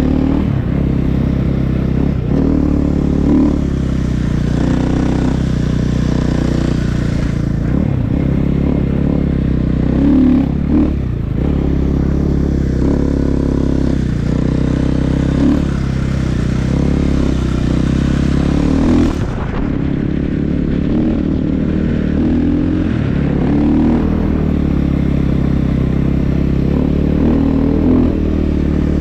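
Snow bike (a dirt bike fitted with a snow track and front ski) riding with its engine running steadily, the throttle swelling and easing every few seconds, with a few brief dips where it backs off.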